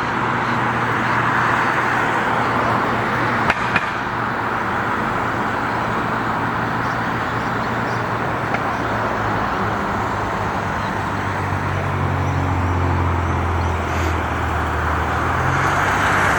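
Steady road traffic noise, with a passing vehicle's low engine hum building over the last few seconds and two small clicks about three and a half seconds in.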